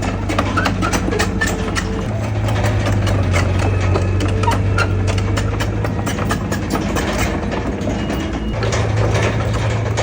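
Heavy diesel bulldozer engine running with a fast, steady clatter of clanking, its note growing heavier about two seconds in, easing and then building again near the end as the load changes.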